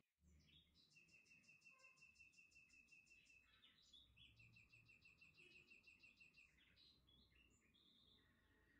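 Faint birdsong: two runs of fast, evenly repeated high chirps, each lasting two to three seconds, with a few shorter calls between and after them over low background noise.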